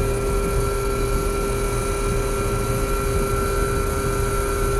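Trane two-stage air-conditioner condensing unit running after being rewired: the compressor and condenser fan make a steady hum with a constant tone over it.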